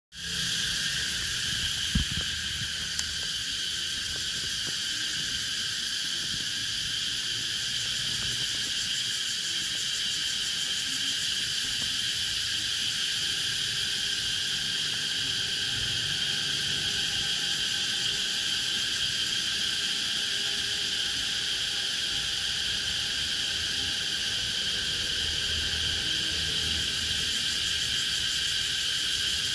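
Cicadas singing in a steady, unbroken drone, with one brief click about two seconds in.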